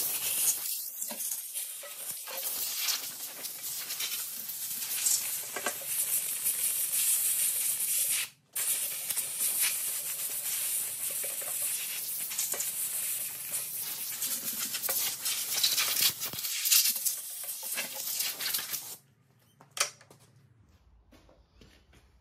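Caked grime being cleaned off the outside of a Holden grey motor around the sump: a steady, scratchy hiss. It breaks off for a moment about eight seconds in and stops a few seconds before the end.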